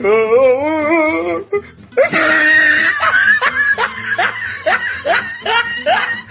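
Loud laughter. It opens with a wavering, pitched run. About two seconds in a sudden noisy outburst breaks in, followed by a quick string of short rising laughs, about three a second.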